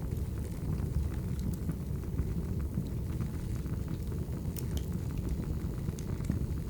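Burning firewood: a steady low rumble of the fire with scattered sharp crackles and pops from the logs, a few more of them in the second half.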